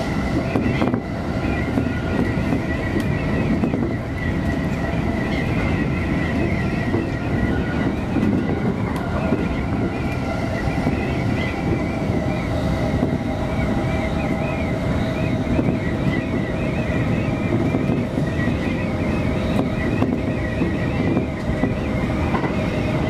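Electric commuter train running at speed, heard from the driver's cab in the front car: a steady rumble of wheels on rails with a steady whine over it.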